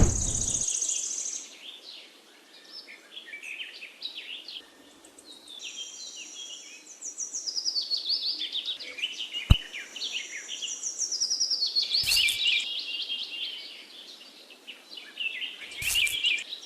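Birds chirping in quick runs of short falling notes, swelling and fading several times, with one sharp click about nine and a half seconds in.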